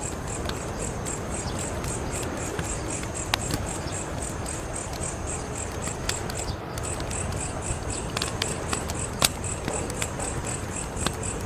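Wood fire crackling: a steady low rush of flames with scattered sharp pops, the loudest about nine seconds in. Crickets chirp throughout in a quick, even pulse of about four chirps a second.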